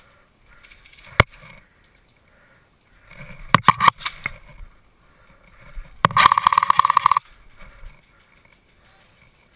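Airsoft rifle shots: a single shot, then a quick cluster of a few shots, then a rapid burst lasting about a second.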